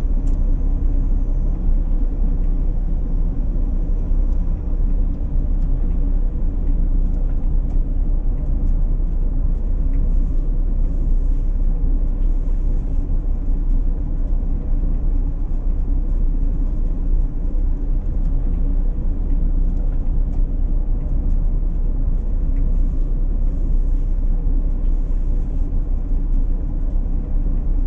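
Steady low rumble of a running vehicle, with no breaks or changes in loudness.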